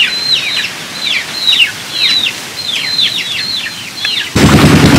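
Birds chirping in quick, repeated notes that slide down in pitch. About four seconds in, a loud, steady engine noise cuts in suddenly and drowns them out.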